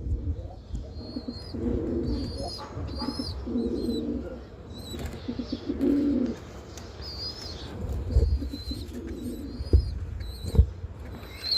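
Birds calling: low cooing phrases repeated about five times, with short high chirps over them. Two dull thumps near the end.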